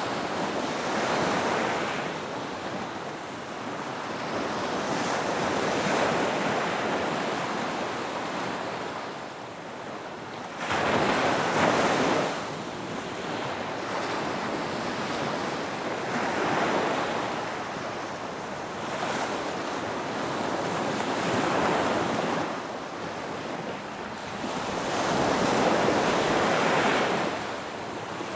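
Ocean waves breaking on a beach: surges of surf roughly every five seconds, each swelling and washing back, the loudest crashing in suddenly about eleven seconds in.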